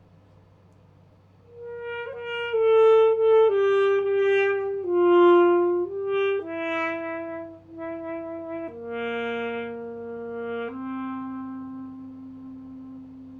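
Solo alto saxophone playing a slow phrase of held notes that steps mostly downward. The phrase begins about a second and a half in and ends on a long low note that fades away.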